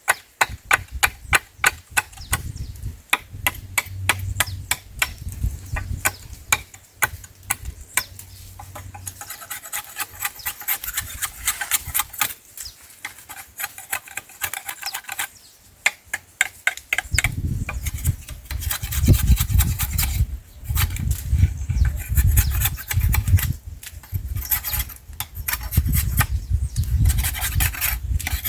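Hand-tool work on wooden poles: rapid, repeated rasping and knocking strokes, several a second, with a heavy low rumble joining in about two-thirds of the way through.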